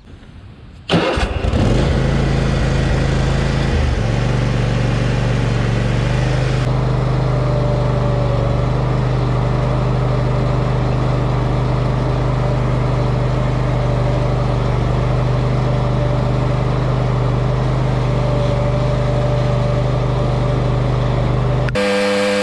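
Cub Cadet Ultima ZT1 zero-turn mower's engine starting about a second in, then running steadily. The sound changes abruptly near the end.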